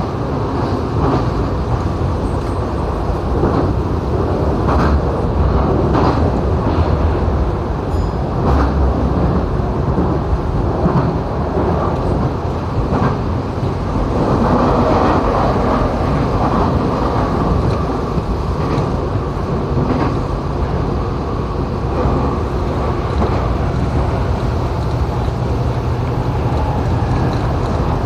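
Tokyo Metro 7000 series electric train running between stations, heard from inside the car: a steady wheel-on-rail rumble with occasional short clicks and knocks.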